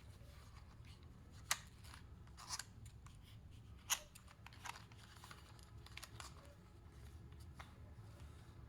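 Scattered light clicks and taps of small objects being handled, over a low steady hum. The two sharpest clicks come about a second and a half in and near four seconds.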